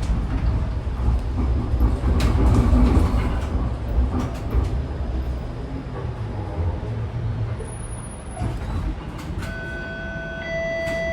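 Toronto streetcar running on its rails, heard from inside the car: a steady low rumble with scattered clicks and rattles. Near the end a steady electronic tone sounds, stepping to a higher note partway through.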